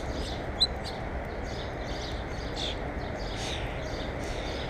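Small birds chirping repeatedly in short high calls at a bird feeder, one sharp loud chirp about half a second in, over a steady background hiss.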